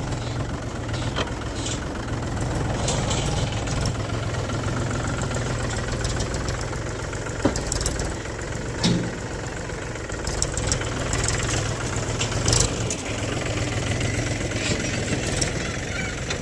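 Mahindra tractor's diesel engine running steadily, with a few sharp knocks a little past 7 s, around 9 s and around 12.5 s in.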